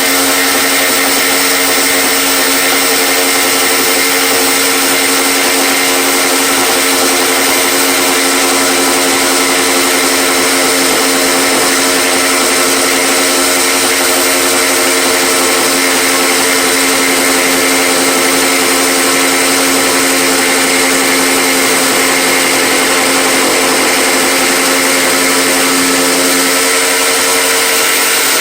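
An electric power tool running continuously, its motor giving a steady pitched whine, with a slight change in tone about 26 seconds in.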